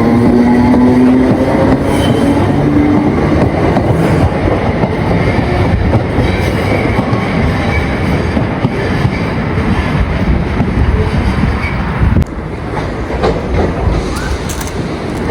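A train passing close by: a loud, steady rumble of wheels on the rails, with a rising motor whine near the start. The noise drops suddenly about twelve seconds in.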